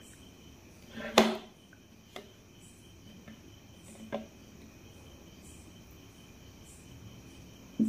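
Quiet eating sounds as a meal begins: a few sharp clicks and taps of mouth or utensil, the loudest about a second in. Underneath runs a faint, steady, high-pitched chirring.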